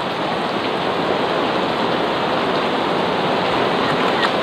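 Heavy rain pouring down onto an outdoor swimming pool and its surroundings: a steady, even hiss.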